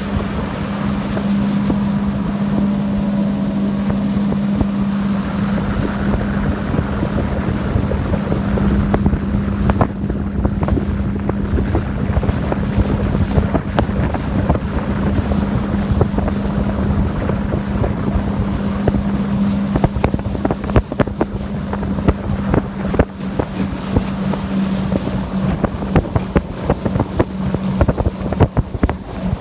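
Suzuki 100 hp outboard motor running steadily at speed, one constant engine note, with wind rushing over the microphone. Frequent sharp knocks come in over the second half.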